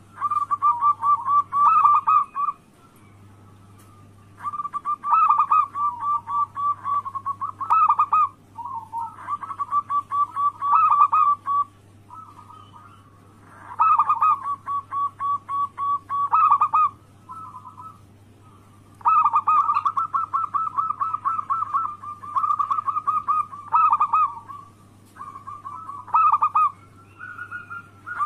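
Local zebra dove (perkutut) cooing: repeated phrases of fast pulsed notes, each lasting a couple of seconds, separated by short pauses. A low steady hum runs underneath.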